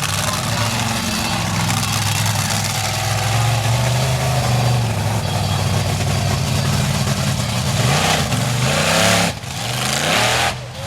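Monster truck engine running hard, its pitch holding steady and then climbing in repeated revs, with the throttle lifting off sharply twice near the end.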